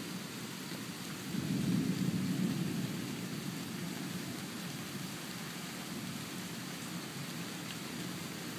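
Thunderstorm: steady rain hiss with a low rumble of thunder that swells about a second in and fades by about three seconds.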